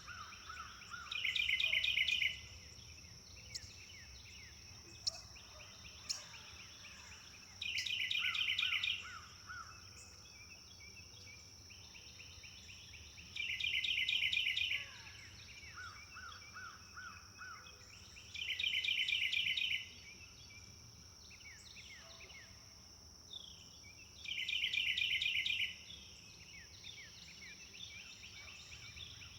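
Songbirds singing. One bird repeats a loud, rapid trill of about a second and a half, five times at intervals of roughly five to six seconds, among softer chirps and a lower trill from other birds. A steady high-pitched insect drone runs underneath.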